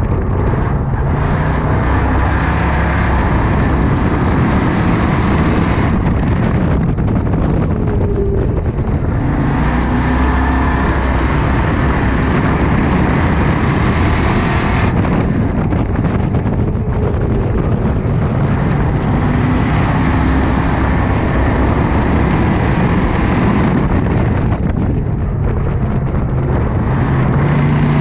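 Ford Crown Victoria race car's V8 engine heard from inside the cockpit, running hard under racing load. It eases off briefly several times, as the car lifts for the turns, then pulls back up.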